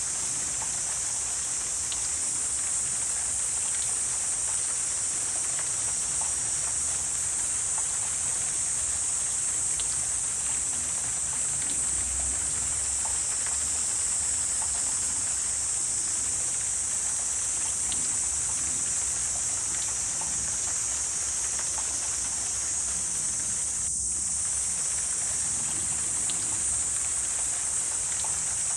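Wetland ambience dominated by a steady, high-pitched insect chorus, with a soft background hiss and a few faint scattered ticks.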